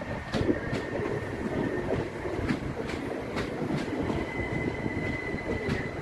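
Southern Class 377 Electrostar electric multiple unit rolling slowly past at close range into the platform, its wheels knocking over rail joints under a steady rumble. A thin high wheel squeal comes twice, briefly near the start and again for a couple of seconds near the end.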